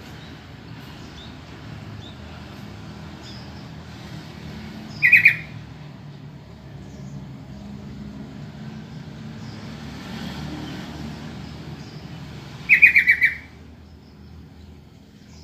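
Sooty-headed bulbul giving two short bursts of quick repeated notes about seven and a half seconds apart, over a steady low background rumble.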